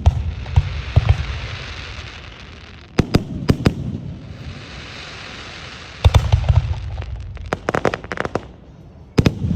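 Aerial fireworks bursting overhead: sharp booms every second or few seconds, a quick triple at about three seconds in, each followed by a fading hiss, and a rapid run of crackling pops near the end before another boom.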